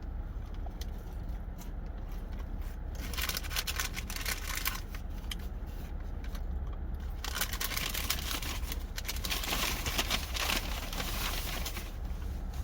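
Paper fast-food packaging crinkling and rustling as it is handled, in two spells: a short one about three seconds in and a longer one from about seven seconds in.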